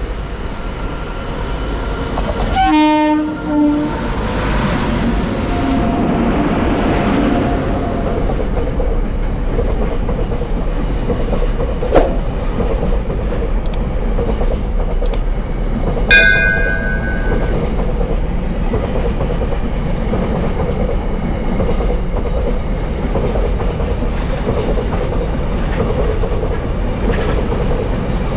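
Goods train passing, its wagons rolling over the rails with a steady rumble and clatter. A train horn sounds about three seconds in. There is a sharp clank near twelve seconds, and a brief high-pitched tone about sixteen seconds in.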